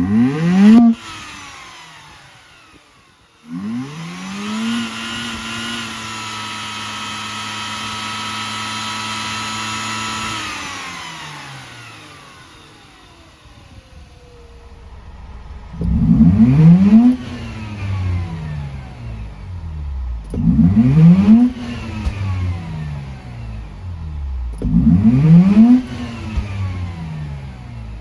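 Mazda RX-8's 13B-MSP two-rotor rotary engine being revved. A quick blip, then a rise to a held higher speed for about six seconds that falls back to idle, then three sharp blips about four seconds apart.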